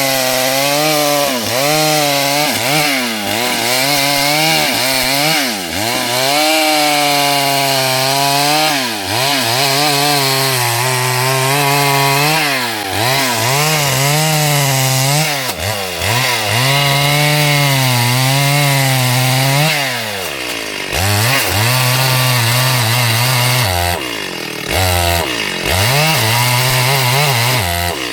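STIHL 72cc two-stroke chainsaw cutting wood at high revs, its engine pitch wavering up and down continually as the chain bites and frees. About two-thirds of the way through the revs sag sharply and pick up again, and near the end the sound dips briefly a couple of times.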